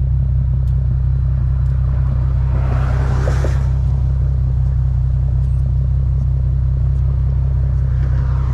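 2013 Infiniti G37's 3.7-litre V6 idling steadily through its exhaust, a low, even drone with no revving. A brief hiss of higher noise comes in about three seconds in.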